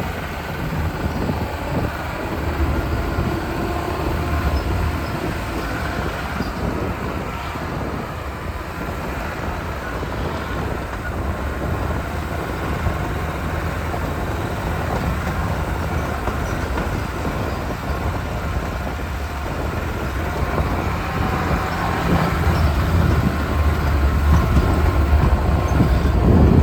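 Lada Niva driving on a rough off-road track: a steady rumble of engine and running gear that grows a little louder in the last few seconds.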